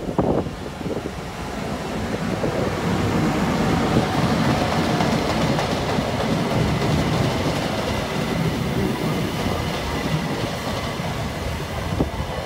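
Class 43 HST diesel train arriving into a platform: the power car passes close by and the coaches roll past, wheels rumbling on the rails. The sound builds over the first two seconds, then stays loud and steady, with a few sharp knocks near the start.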